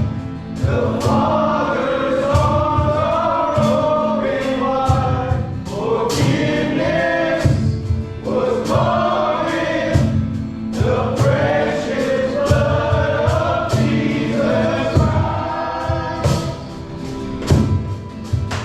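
Worship song: a group of voices singing a slow gospel-style melody with band accompaniment, a steady bass and regular beats.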